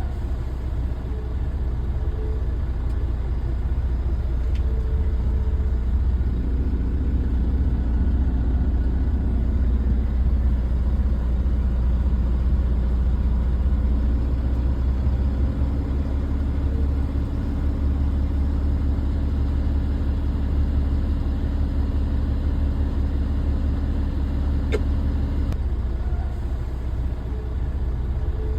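Dump truck engine running with a steady, deep rumble. A steady hum rides over it from about six seconds in until near the end, and there is a single sharp click shortly before the hum stops.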